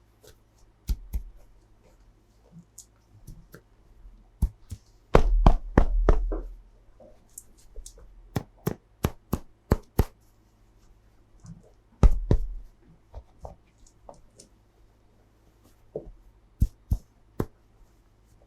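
Hands handling a plastic toy and its packaging: sharp plastic clicks, taps and knocks. There is a dense cluster of knocks about five seconds in, then a quick run of even clicks, and a heavier knock about twelve seconds in.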